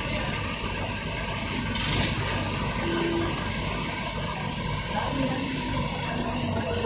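Heavy vehicle engine running steadily at a low idle-like pace, with a short hiss about two seconds in.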